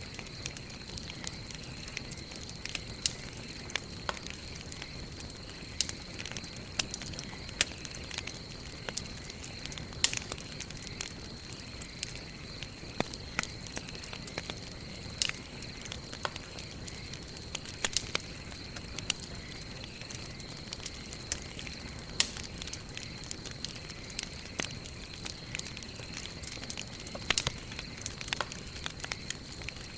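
Wood campfire burning and crackling: many irregular sharp snaps over a steady soft hiss, with a faint steady high-pitched whine behind.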